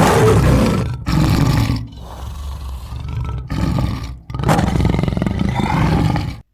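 Tiger roaring in a run of calls: two loud roars, a quieter, longer stretch, then a last loud roar that cuts off suddenly.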